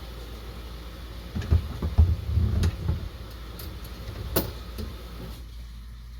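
A cluster of low thumps and knocks, with a couple of sharp clicks a second or two later, over a steady low background hum.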